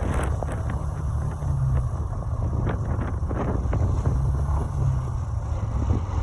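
Wind buffeting the microphone, a steady gusting low rumble, with several short sharp sounds over the first few seconds.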